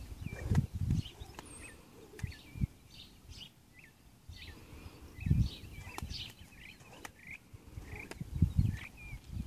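Songbirds chirping and calling over and over in short, curling high notes. A few dull low thumps are heard about half a second in, around five seconds in, and near the end.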